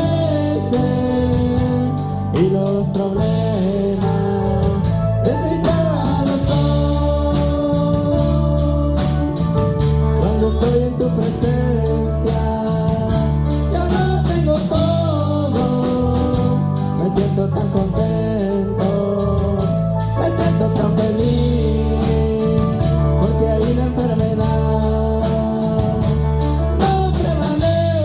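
Live worship band playing Christian praise music with a steady drum beat and bass, a voice singing over it.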